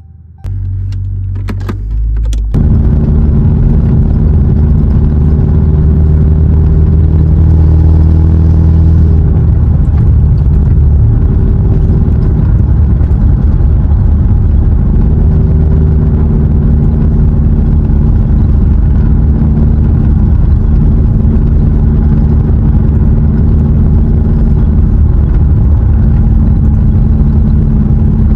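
Car engine starting about two and a half seconds in, after a few clicks, then running at a steady loud idle that settles slightly lower around nine seconds in.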